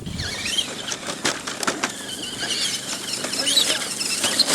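Electric RC truck's motor and gears whining, the pitch rising and falling as the throttle is worked, with a few sharp clicks and knocks as it drives over rough ground.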